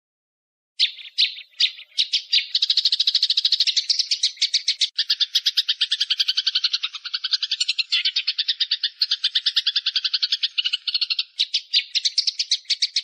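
A bird calling in a very fast, rattling trill of sharp high notes. It starts about a second in with a few separate notes, then runs on as a near-continuous rattle with brief breaks.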